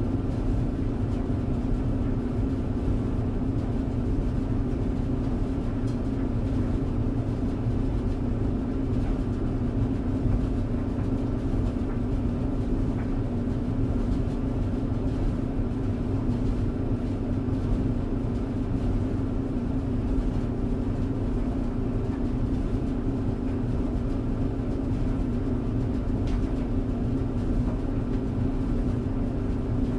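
Clothes tumble dryer running steadily: an even motor-and-drum hum with a low rumble underneath, unchanging throughout.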